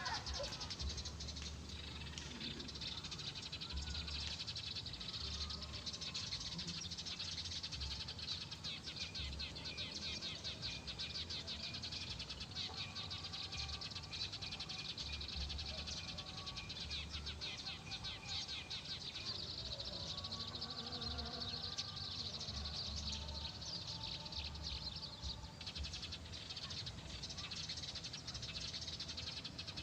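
Small birds chirping in a dense, continuous high chatter of fast ticks, with a few faint calls rising out of it midway and intermittent low wind rumble on the microphone.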